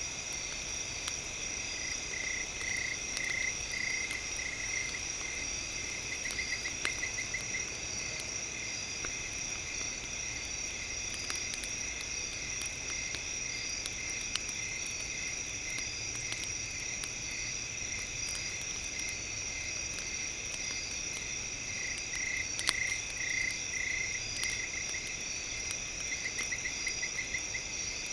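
Crackling campfire with scattered sharp pops, under several steady high electronic tones. Runs of rapid chirping calls come twice, near the start and near the end.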